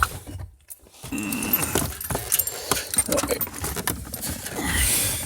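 Small metal objects jingling and clinking, with rustling handling noise and a run of small clicks and rattles.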